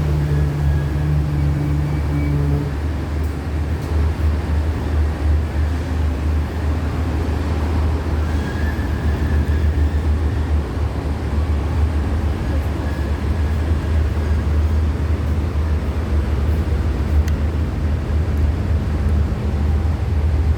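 Steady low rumble and drone of a diesel express train, with a second low humming tone that stops about two and a half seconds in.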